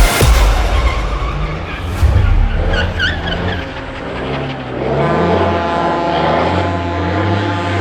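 Drift car engine revving up and down with tyres skidding, a wavering tyre squeal about three seconds in, then the engine holding a steadier note.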